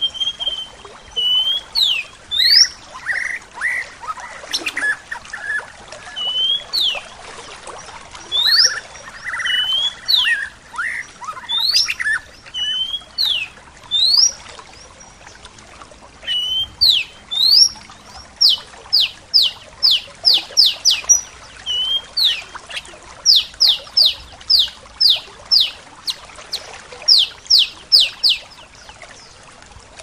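Songbirds singing: one bird repeats short, sharply rising whistled notes, which come in quick runs of several notes in the second half. A lower chattering trill from another bird is heard in the first half, over a steady soft hiss of running water.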